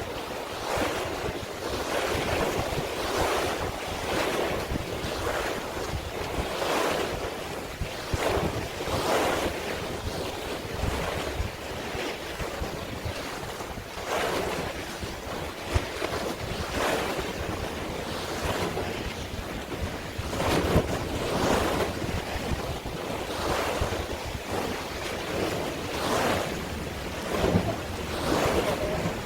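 Sea waves washing in and out, a swell every second or two, with wind buffeting the microphone.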